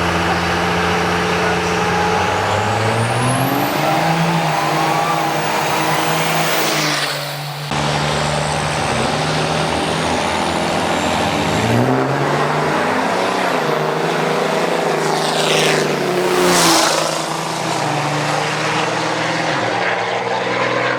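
Drag-racing engines accelerating hard down the strip, the pitch climbing and then dropping back at each gear change. The sound breaks off abruptly about a third of the way in, then another run climbs through its gears and sweeps loudly past.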